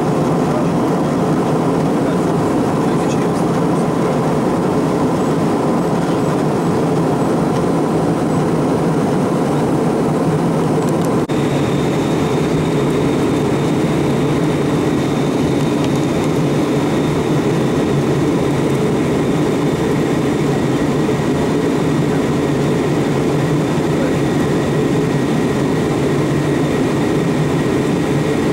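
Steady cabin noise of an Airbus A321 in flight: the even rush of its jet engines and airflow heard from a passenger seat. A faint high steady whine joins about eleven seconds in.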